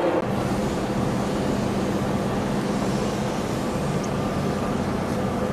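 Steady low hum of a Mugunghwa passenger train standing at the platform, its engine running, a constant drone over a general rumble.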